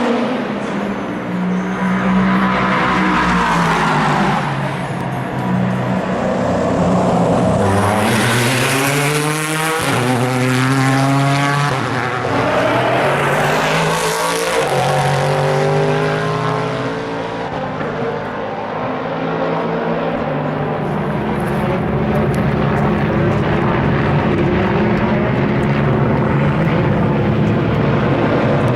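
Endurance racing cars (LMP prototypes and GTE cars) passing one after another, their engine notes rising and falling as they go by, with one loud close pass about a third of the way in; several engines overlap into a steadier drone near the end.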